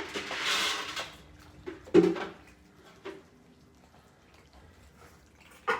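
Kitchen handling noises: a brief hissing rush, then a sharp clunk of a dish or bowl about two seconds in, followed by a few light knocks and a click near the end.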